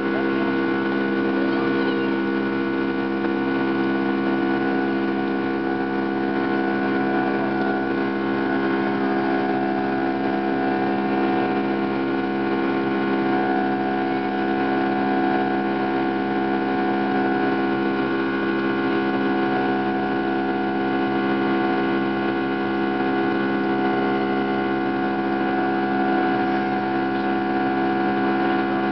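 Steady drone of an airliner's engines after takeoff, heard inside the cabin: an unbroken roar with several steady tones held throughout.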